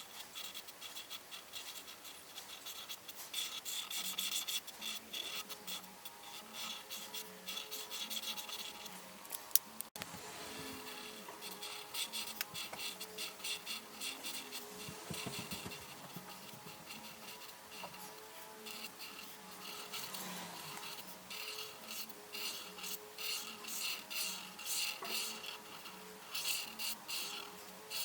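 Coloring tool scratching rapidly back and forth on paper in quick repeated strokes, with one sharp click about ten seconds in.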